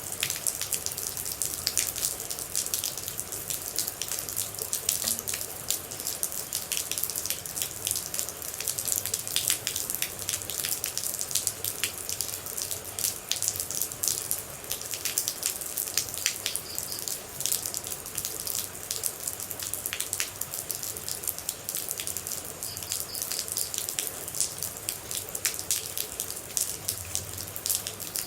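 Rain and water droplets falling and splashing in a dense, steady patter of many small drips.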